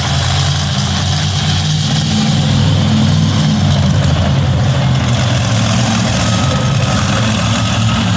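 Monster truck engine idling, loud, low and steady with no revving.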